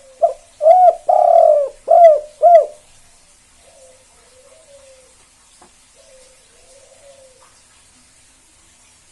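Spotted dove (tekukur), a 'kuk 2' singer, cooing: one loud phrase of about five arched coos with a long drawn note in the middle, over the first three seconds, followed by fainter cooing.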